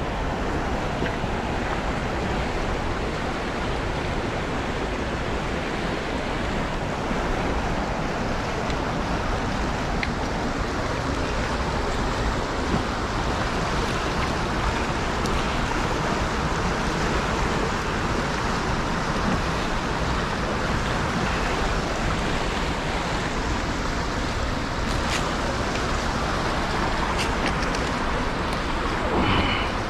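A small river running high and fast: steady rushing of water over the riffles. A few faint clicks come in the last few seconds, with a brief louder sound just before the end.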